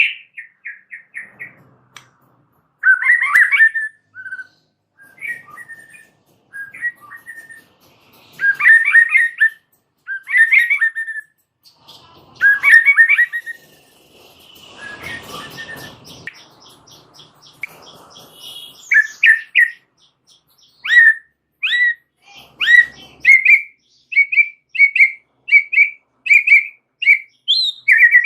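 White-rumped shama (murai batu) singing a varied, chattery song of short whistled phrases and trills, with a harsh rasping note about halfway and fast runs of repeated notes near the end.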